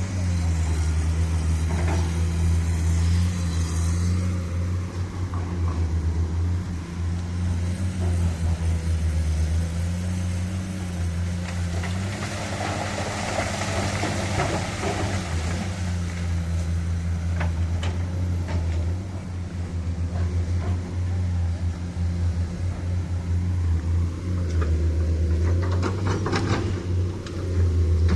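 Heavily loaded dump truck's diesel engine running steadily under load as a low drone, its pitch rising a little about halfway through.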